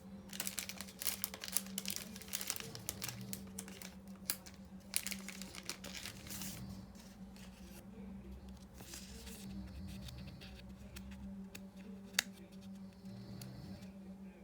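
Foil wrapper of a Yu-Gi-Oh booster pack crinkling and tearing as it is handled and opened, dense for the first half, then quieter rustling with one sharp click near the end.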